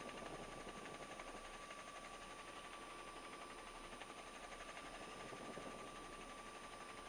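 Faint steady hiss of an open radio or recording channel, with a thin constant tone and a low hum underneath.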